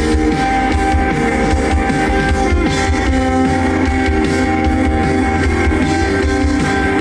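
A rock band playing live, with guitar over bass and drum kit, at a steady loud level.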